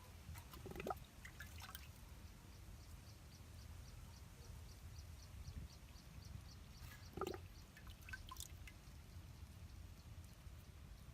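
Two water drops plinking into water several seconds apart, each a short rising plink, over a faint high ticking at about three or four a second.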